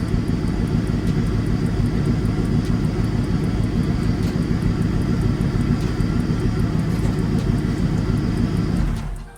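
Car engine running at a steady, even idle after an engine overhaul; it has calmed down from running rich and shows no obvious miss. The sound cuts off suddenly near the end.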